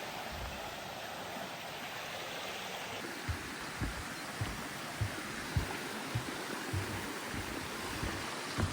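Steady rush of a stream's flowing water. From about three seconds in, footsteps on the path thud at a regular walking pace, about every half second.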